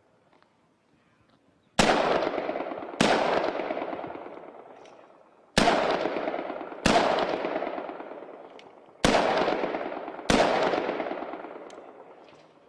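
Heckler & Koch G36 assault rifle (5.56 mm) fired in single shots: six shots in three pairs, the two shots of each pair about a second apart, each shot ringing out in a long, fading echo.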